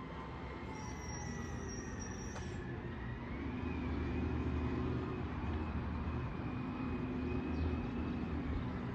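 Garbage truck running, a steady engine rumble with a thin whine on top that rises slightly about three seconds in.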